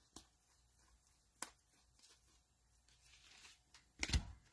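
Faint handling of trading cards and a cellophane pack wrapper: a couple of light clicks and a soft rustle, then a louder knock near the end.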